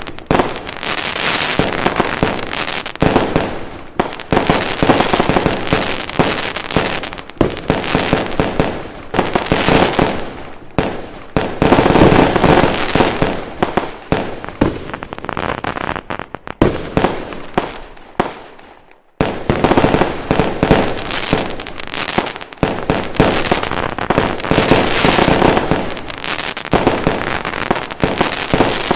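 Dense fireworks barrage: rapid overlapping bangs and crackling. It dies away briefly about two-thirds through, then starts again abruptly at full strength.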